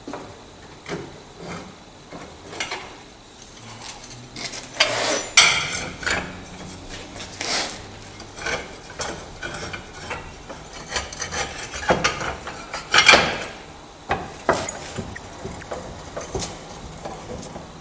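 Metal parts and hand tools being handled at a workbench: irregular clinks, knocks and scraping. There are louder knocks around a quarter and two thirds of the way through, and a quick run of sharp metallic clinks with a brief ring near the end.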